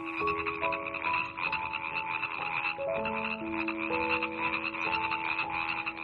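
Frogs calling in a dense, rapid trilling chorus, over soft background music with long held notes.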